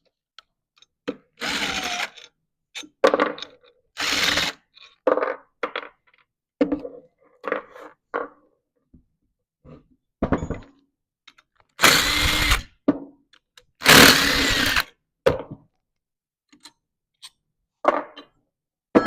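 A small power tool run in four short bursts of about half a second to a second each, its motor whine audible, with light clicks and knocks of parts being handled between the runs.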